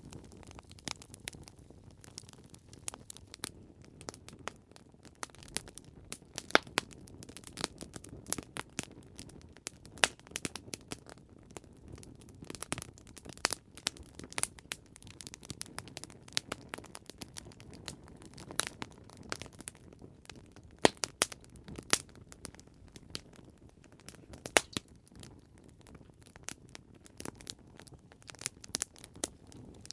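Wood campfire crackling and popping: quick irregular snaps over a low steady hiss, a few pops much louder than the rest.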